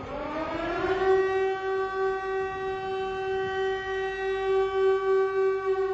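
A loud siren-like wail: a pitched tone that glides up over the first second, then holds steady at one pitch.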